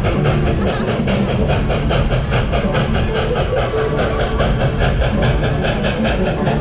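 Narrow-gauge 2-8-2 steam locomotive train running, with a fast, even beat of about five strokes a second. Music plays along with it in short held notes.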